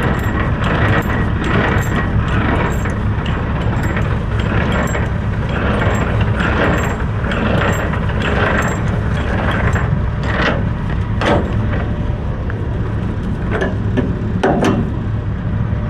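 Semi truck's diesel engine idling steadily, with a few short knocks or clanks about ten and eleven seconds in and again near the end.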